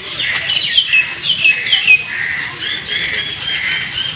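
Birds calling in the trees, repeated squawking notes that fall in pitch, loudest in the first two seconds, then quicker shorter calls.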